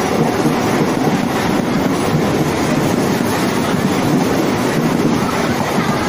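Electric suburban local train running past, its wheels and coaches on the track making a steady, loud noise.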